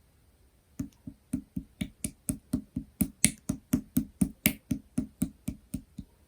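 Mint pearl slime being pressed and poked by hand in a steady rhythm, making short sharp pops about four times a second, starting about a second in.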